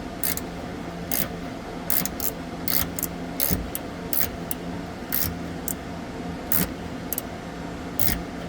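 Irregular metallic clicks and scrapes of a small hand driver and screws working on a water heater's sheet-metal top cap, over a steady low hum.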